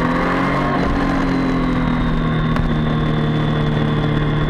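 Triumph sport motorcycle's engine running under way, its note easing slowly lower, with wind rumble on the microphone.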